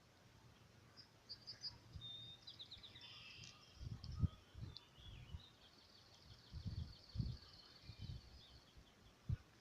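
Songbirds calling and trilling, with short high chirps early on and a long rapid trill in the second half. Several dull low bumps are mixed in, the loudest about four seconds in.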